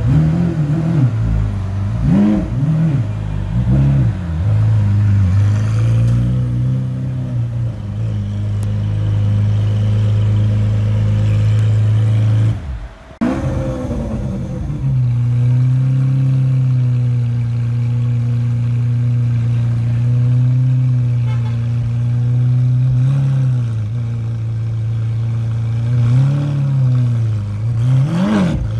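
Lamborghini Aventador SV's V12 engine idling while stationary, blipped several times with quick revs in the first few seconds. After a short break about halfway through it idles steadily, with a few more revs near the end.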